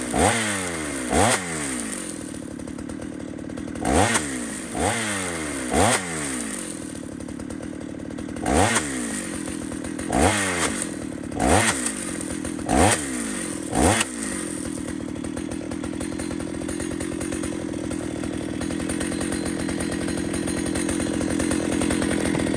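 Chainsaw revved in about a dozen quick blips, each rising and dropping back, then idling steadily from about 14 seconds in. The blips are throttle revs of the kind used to check that bar oil is coming off the bar.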